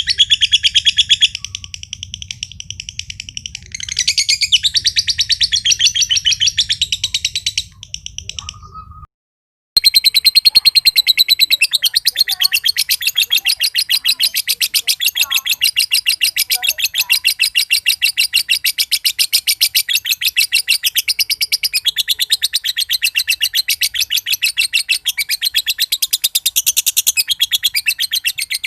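Male green (josan) lovebird giving a long ngekek: a fast, unbroken chattering trill of many sharp, high notes a second. It breaks off briefly about nine seconds in, then runs on without a pause.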